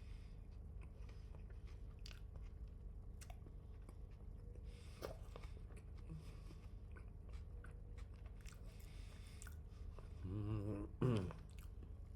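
A person chewing McDonald's food close to the microphone, with scattered small crunches and wet mouth clicks. Near the end comes a short, wavering voiced hum, then a louder one.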